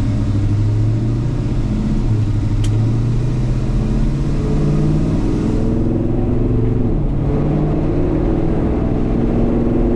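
1965 Chevelle's big-block 396 V8 pulling under acceleration, its note rising steadily, dropping briefly about seven seconds in as the automatic transmission upshifts, then climbing again.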